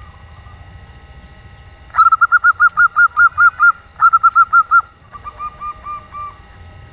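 Female zebra dove (perkutut) cooing: two quick, loud runs of short, evenly spaced notes with a brief break between them, followed by a fainter, slightly lower run of notes.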